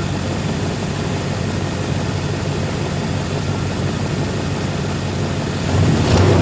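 1990 Chevrolet K1500's 350 V8 (5.7 L, throttle-body injection) running steadily with an exhaust leak, getting louder about six seconds in.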